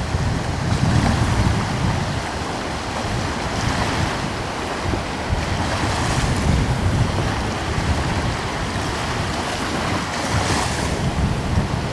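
Gentle sea waves washing onto the shore, swelling and easing every few seconds, with a light coastal breeze buffeting the microphone in a low rumble.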